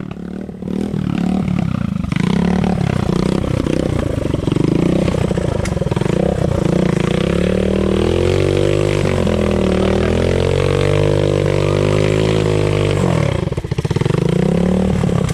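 Motorcycle engine revved hard and held at high revs, its pitch swaying up and down, as the rider tries to power the bike out of deep mud where it is stuck. The engine briefly drops off about two seconds before the end, then revs up again.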